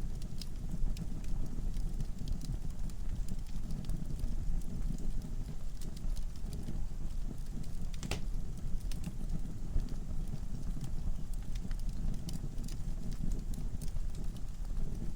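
Wood fire burning in a fireplace: a low steady rumble of flames with scattered sharp crackles and pops from the logs, one louder pop about eight seconds in.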